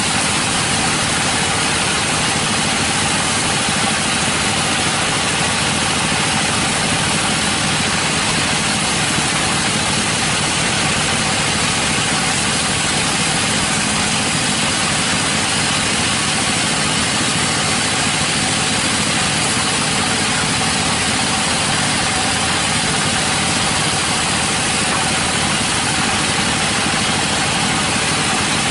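A sawmill's engine running steadily at one speed, with no change in load and a dense hiss over a low rumble.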